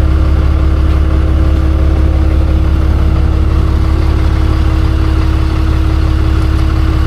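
Tow truck engine idling steadily with a deep, even drone.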